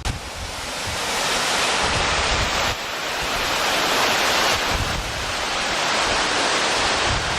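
Steady rushing roar of Godafoss waterfall, mixed with wind buffeting the microphone in gusts. The level drops abruptly twice, about a third and two thirds of the way through.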